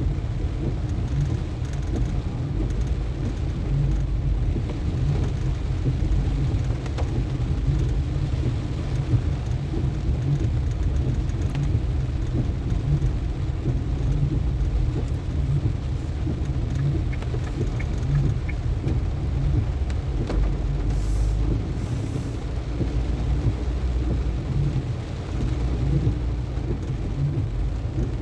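Car driving on a rain-soaked road: a steady low rumble of road and engine noise under an even hiss of rain and wet tyres.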